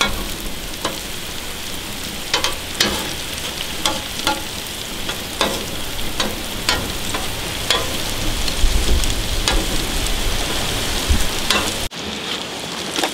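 Garlic slices sizzling in butter and olive oil on a gas grill's flat griddle plate, with metal tongs clicking and scraping on the plate as they stir. The sizzling cuts off suddenly near the end.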